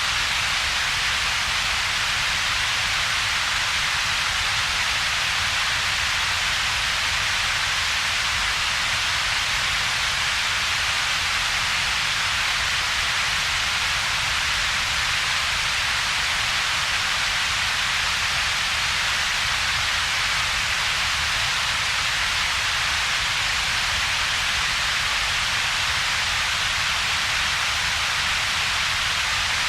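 Synthetic double-peaked noise, with its spectrum shaped around two colour-mapped peaks (yellow and ultraviolet). It is a steady, unchanging hiss: a strong bright band in the upper range and a weaker deep rumble underneath, with a hollow gap between them.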